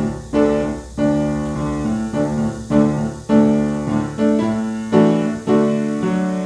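Piano played slowly, with chords and notes struck one after another and each fading before the next.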